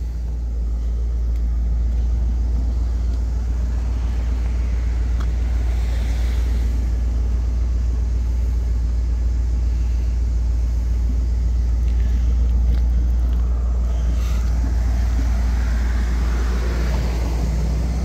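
1957 Cadillac Series 62's V8 engine idling with a steady low rumble as the car creeps slowly up into an enclosed transport trailer.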